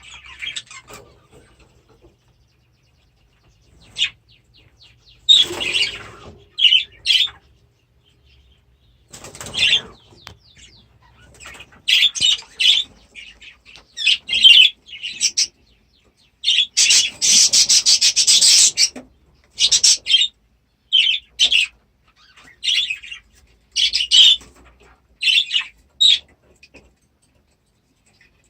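Budgerigars chirping in short bursts, with flurries of wing flapping; the longest and loudest flurry, about two seconds, comes about two-thirds of the way through.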